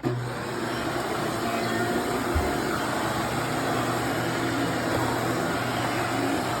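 Vacuum cleaner switched on, starting abruptly and then running steadily on its carpet setting with a rushing suction noise. There is one brief low knock about two and a half seconds in.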